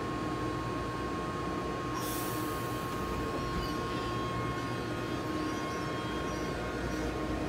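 JR 211 series 5000 electric multiple unit departing a platform: a steady hum from the standing train, a sudden burst of air hiss about two seconds in as the brakes release, then the train starting to roll away.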